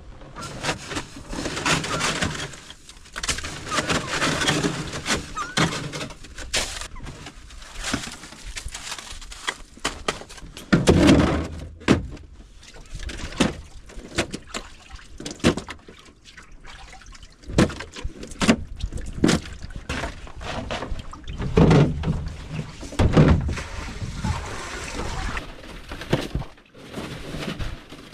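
Water splashing and sloshing, with many irregular knocks and clatters.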